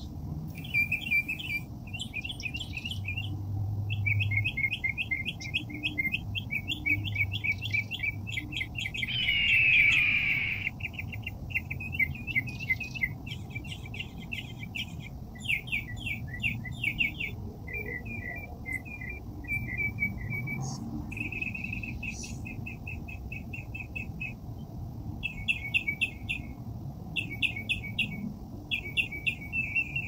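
Small songbirds chirping in quick repeated trills and runs of short notes. A louder, harsher noisy burst about a second long comes about a third of the way in and again at the very end, over a faint low steady rumble.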